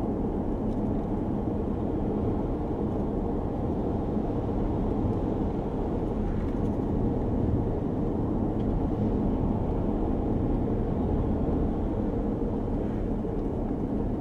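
Steady road and engine noise inside a moving car's cabin, a constant low rumble with no breaks.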